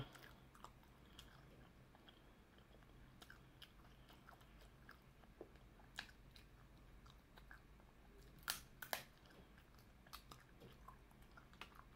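Faint close-up chewing and mouth sounds while eating seafood, with scattered soft clicks and smacks; the loudest come twice, about eight and a half and nine seconds in.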